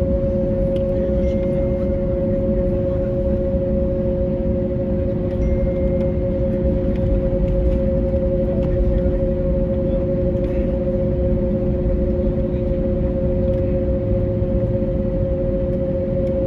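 Steady aircraft cabin noise inside an Airbus A321neo on the ground after landing: a low rumble with two steady humming tones.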